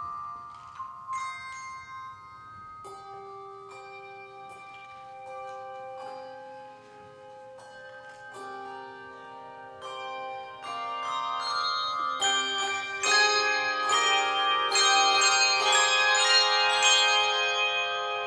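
Handbell choir playing a tune: struck bells with long ringing notes, sparse and soft at first, then fuller and louder about two-thirds of the way through as many more bells sound together.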